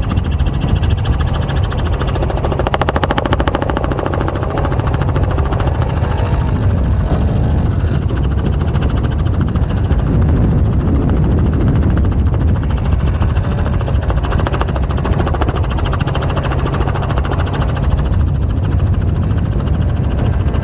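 A loud motor running steadily with a fast, even pulsing and a heavy low rumble.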